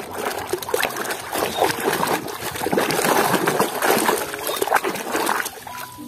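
Water splashing and trickling as a muddy toy is washed, with many small splashes one after another; it dies away shortly before the end.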